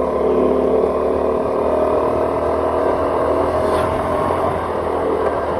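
Vehicle engine running steadily at cruising speed, with road and wind noise.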